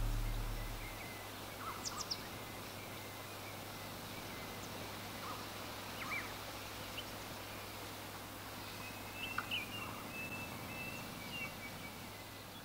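Steady outdoor hiss with birds calling: scattered short high chirps, and a thin warbling call near the end. Background music fades out in the first second.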